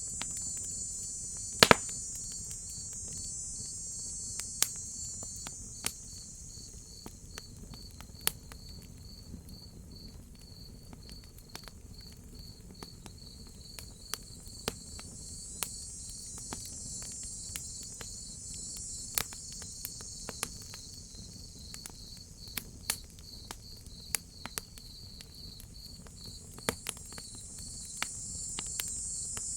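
Crickets chirping in a steady, evenly pulsing rhythm, under a higher insect buzz that swells and fades. A crackling wood fire gives scattered pops throughout, with one loud pop near the start.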